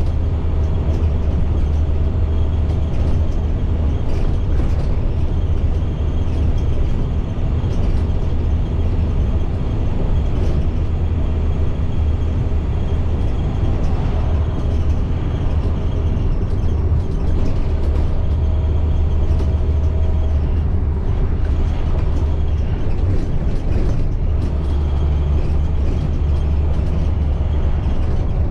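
A 2010 IC CE300 school bus under way: its MaxxForce DT inline-six diesel runs steadily with a deep rumble, mixed with road noise.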